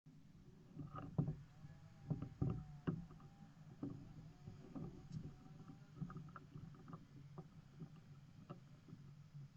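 Faint scattered knocks and clicks with light water sounds around a kayak, over a low steady hum.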